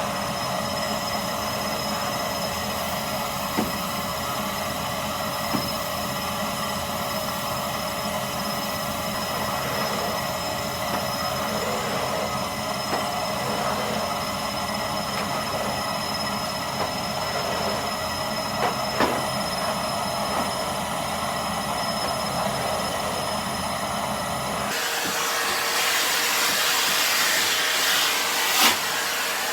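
Vacuum cleaner switched on and running steadily, a motor whine over a broad rush of air. About 25 seconds in it turns thinner and hissier, with less low hum.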